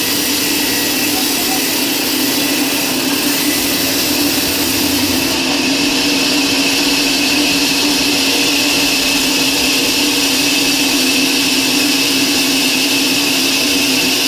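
An electric power tool's motor running steadily with a constant hum and hiss; the high hiss shifts slightly about five seconds in.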